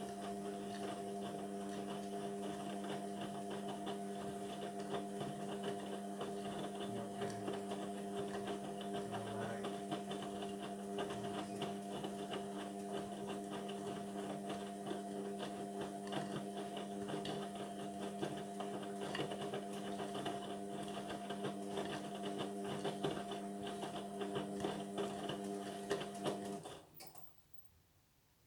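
Indesit washing machine running on its synthetics programme: a steady motor hum with several fixed tones. It cuts out near the end.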